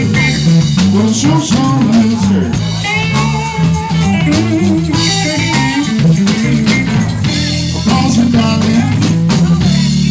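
Live band playing a blues-rock instrumental passage: electric guitar lines over bass and a drum kit.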